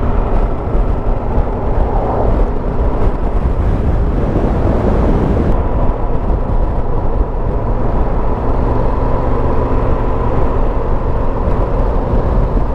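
Motorcycle riding along at a steady speed, heard from a helmet camera: a constant engine note under a heavy, even rush of wind noise.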